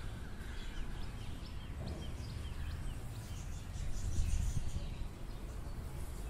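Small birds chirping in short, quick falling notes, over a low wind rumble on the microphone that swells about four seconds in.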